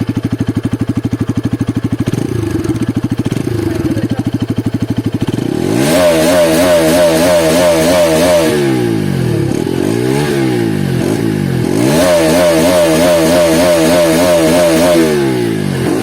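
Bajaj Pulsar RS200 single-cylinder engine and exhaust idling with an even pulsing beat, then revved from about five seconds in: held high, several quick blips that rise and fall back, held high again and dropping near the end.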